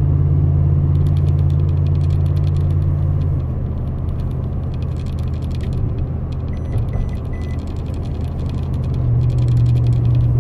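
2019 Toyota Tundra TRD Pro's 5.7-litre V8 through its true dual exhaust, heard from inside the cab while the truck pulls up a grade under load: a steady low drone that eases back after about three seconds and swells again near the end.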